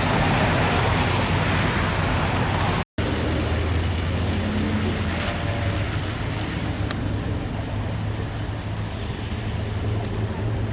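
Car engines running, with a steady low hum under road noise; the sound cuts out for an instant about three seconds in.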